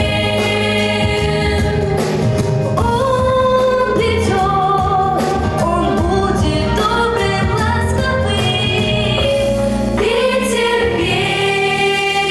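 An ensemble of young singers singing a pop song together over an instrumental backing track with a beat.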